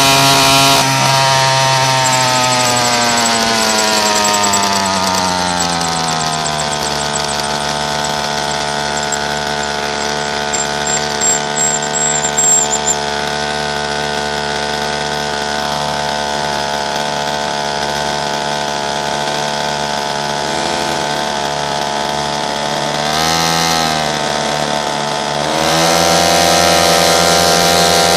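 Pocket bike's small engine running at high revs, its pitch falling over the first few seconds as it slows, then running steadily at lower revs. It revs briefly a few seconds before the end, then the revs climb again.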